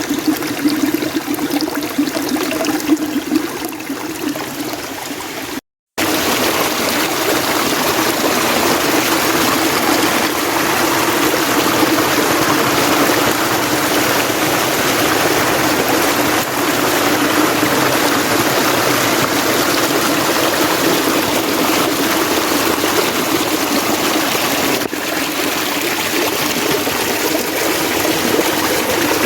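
Mountain stream running with a steady rush of water. The sound cuts out completely for a moment about six seconds in and comes back fuller and a little louder.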